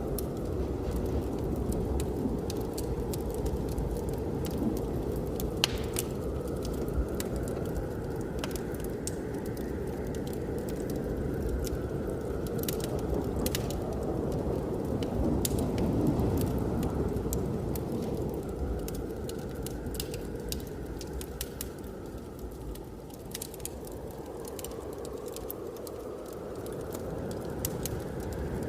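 A wood fire crackling, with frequent sharp snaps scattered throughout, over a steady low rush of blizzard wind whose faint whistle slowly rises and falls.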